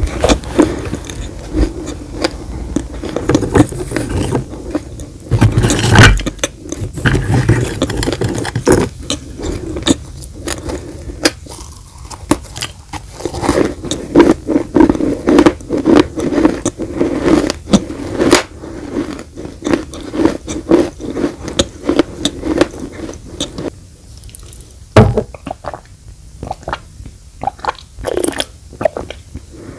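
Crunchy baked clay being bitten and chewed: many sharp crunches and cracks, with grinding, scraping stretches in between.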